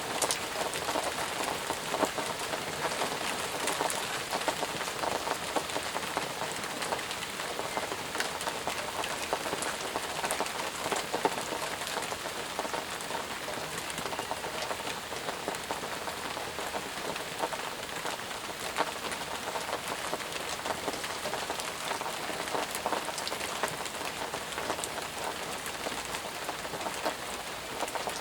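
Steady heavy rain falling on leaves and ground, an even hiss with many close drop patters.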